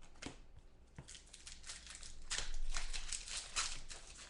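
Plastic foil wrapper of a trading-card pack crinkling as it is handled and torn open, a busy crackle that grows loudest about halfway through.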